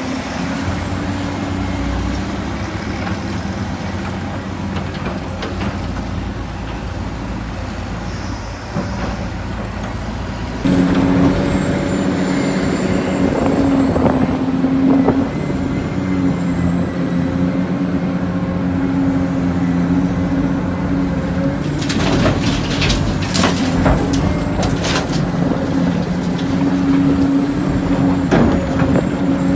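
Radio-controlled model excavator and trucks at work: a steady motor-and-gear hum with a thin high whine, growing louder about a third of the way in, and a short run of sharp clicks and rattles about three-quarters through.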